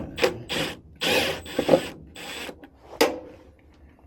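A series of about six short rubbing or scraping strokes, the longest about a second in.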